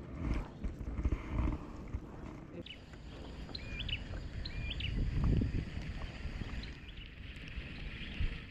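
A bird gives several short high whistles that rise at the end, a few seconds in, over a steady low rumble.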